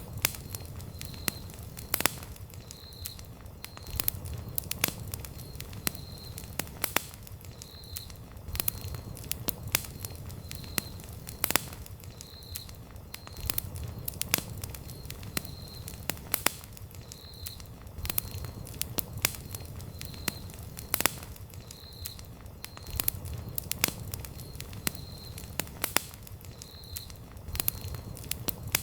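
Wood campfire crackling and popping: irregular sharp snaps several times a second over a low rumble of the flames. A short high chirp repeats about once a second.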